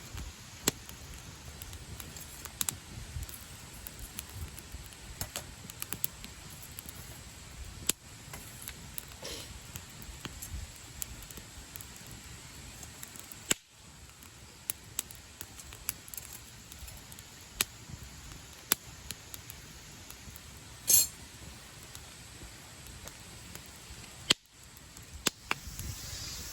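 Wood campfire crackling: scattered sharp pops and snaps over a low, steady rumble, with one louder pop about two-thirds of the way through.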